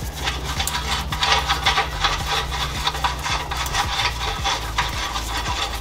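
Hand tools working the exhaust bolts under a car: a run of quick metal clicks and scraping.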